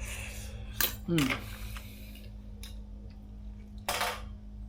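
Cutlery clinking against a dish a few times as food is scooped up to eat, with a short falling vocal sound after the second clink.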